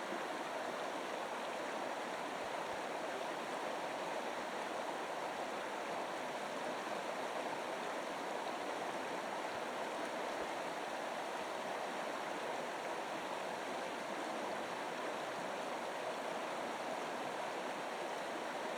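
Steady, even rush of running water, like a stream, with no breaks or changes.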